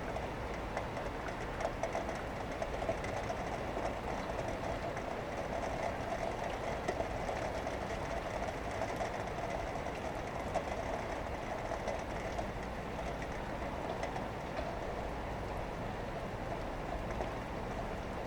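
Vehicle passing by in the rain heard through an open window: a steady rumbling hiss that swells in the middle and eases toward the end, with small ticks scattered through it.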